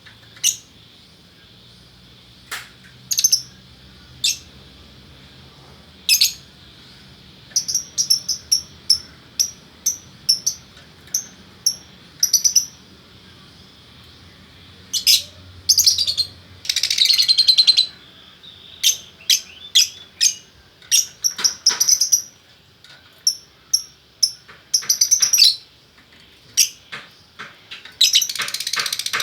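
Lovebirds calling: short, high-pitched chirps at irregular intervals, breaking into longer runs of rapid chatter about 17 seconds in and again near the end.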